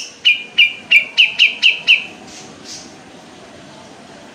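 Kapas tembak bulbul singing a fast run of about seven sharp repeated notes, roughly four a second, in the first two seconds.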